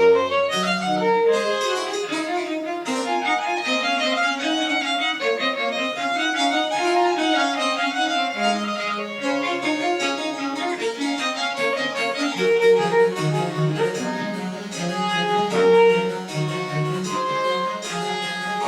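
Baroque chamber music played live: a violin carrying quick-moving melodic lines over a bowed bass line, in French Baroque style.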